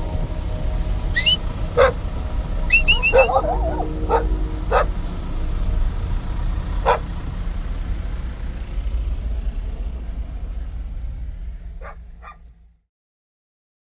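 A dog barking and yipping in short, sharp, scattered calls over a steady low rumble; the sound fades out near the end.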